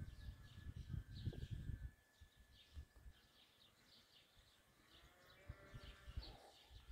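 Faint, short high chirps of small birds repeating throughout. There is low, muffled rumbling in the first two seconds, and a faint drawn-out call with several overtones about five seconds in.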